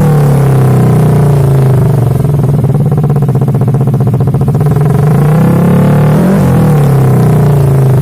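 Yamaha NMAX scooter's single-cylinder engine running through an SC Project aftermarket racing exhaust. It eases down to a lumpy, pulsing idle in the middle, then is blipped up and back down a couple of times in the second half.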